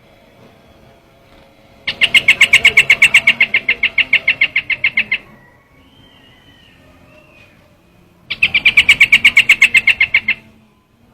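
Recorded call of the bird known in Vietnamese as trao trảo, played as a hunting lure: two bouts of a fast, even rattle of sharp notes at about seven a second. One bout starts about two seconds in and lasts some three seconds, and a shorter one comes near the end. A faint wavering whistle is heard between the two bouts.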